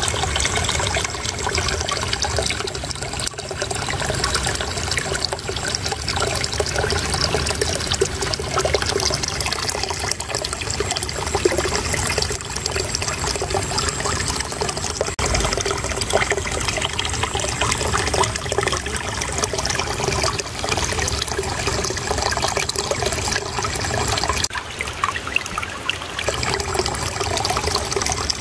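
Shallow water flowing and trickling steadily over stones, a continuous babbling gurgle.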